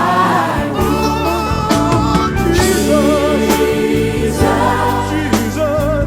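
Gospel song with choir singing sustained, wavering notes over a steady bass and beat.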